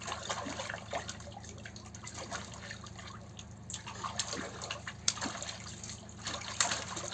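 Rainwater splashing and dripping in small, irregular splashes as children play in it.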